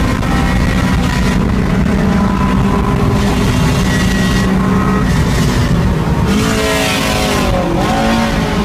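A 2006 Honda S2000's four-cylinder engine running hard at high revs, heard from inside the car at speed. About six seconds in, the pitch drops and wavers, with a rush of noise: the driver lifting and downshifting for the next corner.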